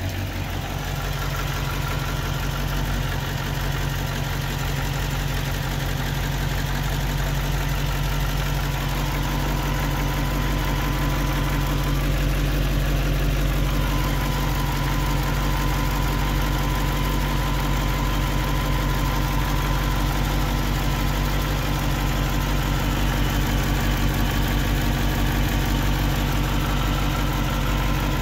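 1966 Ford Cortina 1500's four-cylinder engine idling steadily, growing slightly louder over the first several seconds.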